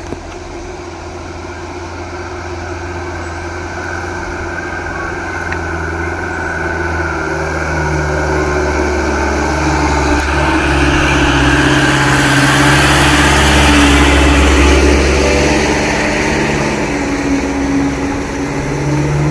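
Vehicle engine running under heavy load on a steep climb, growing louder to a peak about two-thirds of the way through, then easing off.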